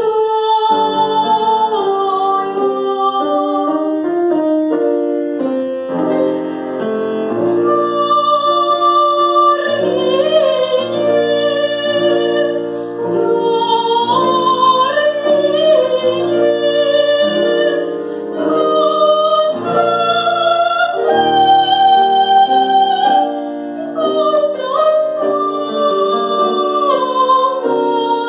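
A woman singing in classical operatic style over piano accompaniment. Her long held notes waver with vibrato above changing piano chords.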